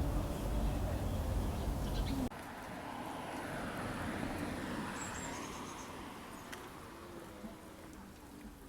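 Low, steady rumble that cuts off abruptly a little over two seconds in, giving way to quieter, slowly fading ambience with a few faint high chirps.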